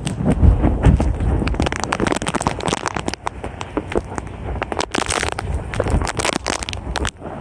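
Strong hurricane wind buffeting the phone's microphone: a low rumble broken by constant crackling and popping.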